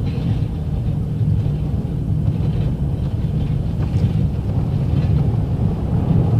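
Snow plow truck heard from inside the cab as it scrapes ice off the pavement: a steady low rumble of engine and blade that grows a little louder near the end.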